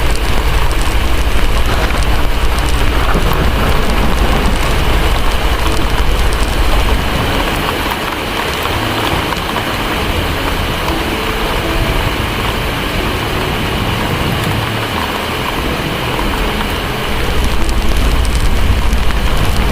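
Heavy rain with a deep rumble of distant thunder. The rumble fades about seven seconds in and builds again near the end.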